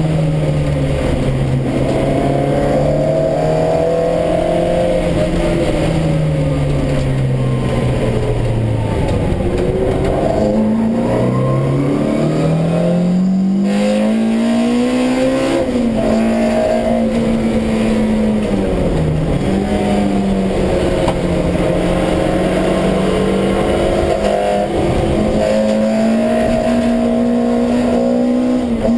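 Honda B18 1.8-litre four-cylinder with individual throttle bodies, heard from inside a stripped-out CRX race car at high revs. The engine note holds steady, drops about eight seconds in as the throttle is lifted, then climbs hard again with a brief break partway up. It dips shortly once more and rises again near the end.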